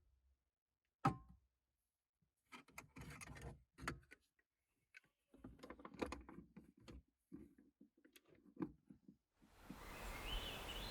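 Faint, scattered knocks and clicks of things being handled at a camp table, then a soft hiss that swells near the end.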